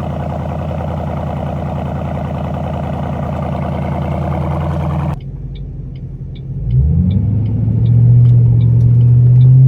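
2006 Ford Mustang with a Roush Extreme axle-back exhaust, heard from outside the car: the engine idles steadily for about five seconds. It cuts off abruptly, then after a quieter stretch rises in speed about seven seconds in and holds at a louder, higher steady pitch.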